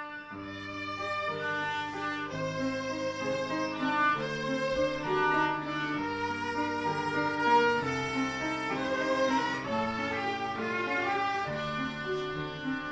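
An ensemble of kobyz, Kazakh bowed folk fiddles, playing a melody in several parts with held, sustained notes.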